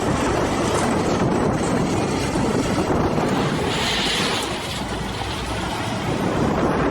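A vehicle or heavy machine running: a dense, steady rumble that dips a little past the middle.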